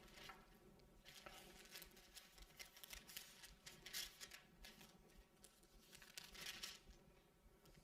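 Near silence, with faint papery rustles now and then: Bible pages being turned.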